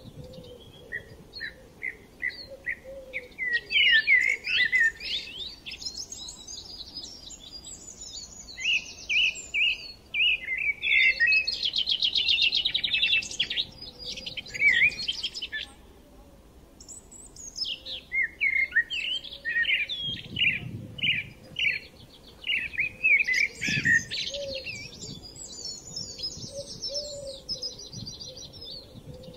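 Small birds chirping and twittering, a busy chorus of quick overlapping chirps and trills in bursts, with a short lull about halfway through.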